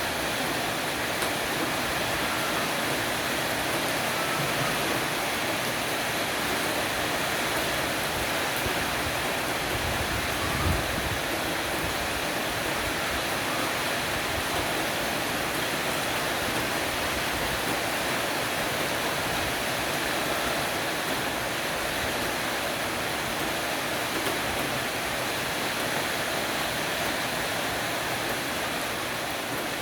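Heavy rain falling steadily on a porch roof, an even rushing hiss of water, with a soft low thud about ten seconds in.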